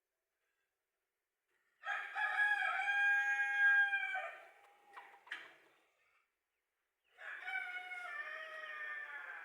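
Rooster crowing twice, each crow a long drawn-out call of two to three seconds, with a couple of short sharp sounds between them.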